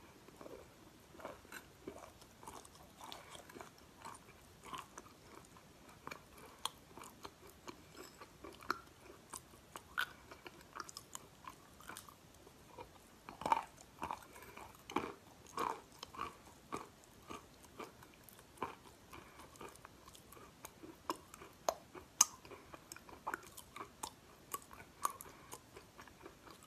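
Close-up chewing and crunching of crushed eating chalk: many small, crisp crunches, with a few louder ones about halfway through and again later. A metal spoon scrapes and taps in the bowl between bites.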